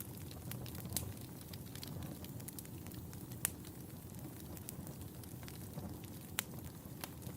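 Wood fire burning in a fireplace: a steady low rumble of flames with scattered sharp crackles and pops, the loudest about a second in, around three and a half seconds in, and past six seconds.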